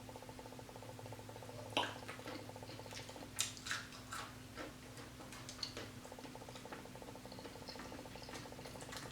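Close-miked eating sounds: chewing with scattered wet clicks and smacks, over a steady low electrical hum.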